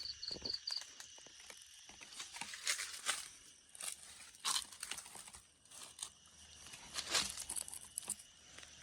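Irregular rustling and crackling, like dry material being crumpled or crunched, with a few louder crunches scattered through. A faint high insect chirping pulses just at the start.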